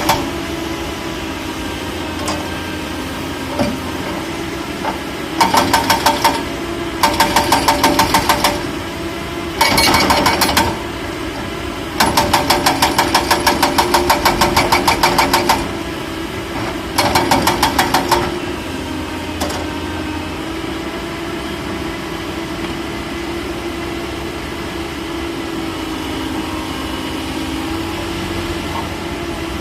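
Excavator's diesel engine running steadily, broken five times by bursts of rapid, evenly spaced loud hammering, about six blows a second, each burst lasting one to three seconds.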